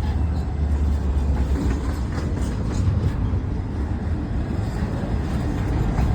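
Diesel freight locomotive running with a steady low rumble, with a few faint clicks from the moving train.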